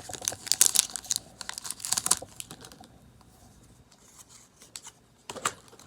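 Foil wrapper of a Pokémon Sun & Moon booster pack being torn open and crinkled, with dense crackling for about two seconds. It then goes quieter, with a short rustle near the end.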